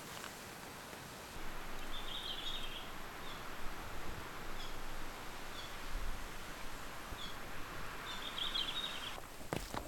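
Small birds chirping in the forest: a burst of chirps about two seconds in, a few single chirps after it, and another burst near the end. Under them runs a steady rushing hiss that stops abruptly near the end.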